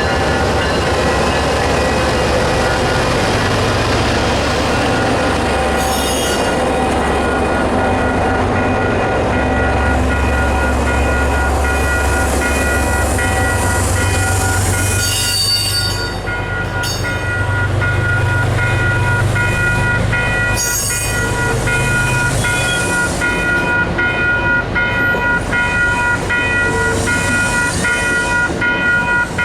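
A diesel-hauled commuter train running by, with a deep engine rumble that rises and falls and steady high-pitched ringing tones from the wheels. A rapid, regular pulsing sets in over the last few seconds.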